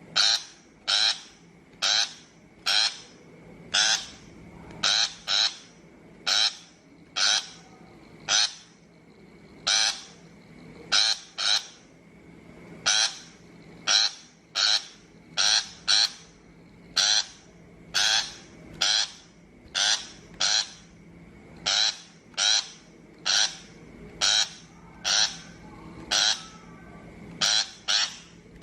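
A shrike giving short, harsh, chattering calls over and over, about one or two a second, some in quick pairs. This is a recorded call track of the kind played through a speaker to lure shrikes.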